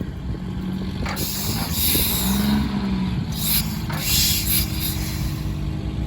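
Engine at an antique engine show running with a steady low rumble, with several short hisses and a brief rising-then-falling tone about two seconds in.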